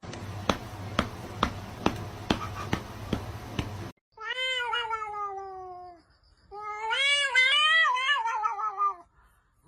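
About four seconds of steady hiss with regular clicks, roughly two a second, cut off suddenly; then a cat gives two long, drawn-out meows, the first falling in pitch, the second wavering.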